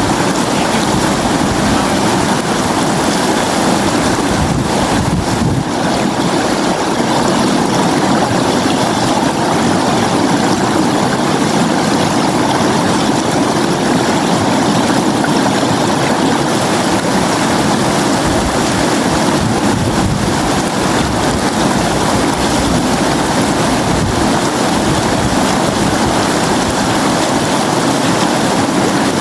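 Flowing river, a steady, even rush of water with no let-up.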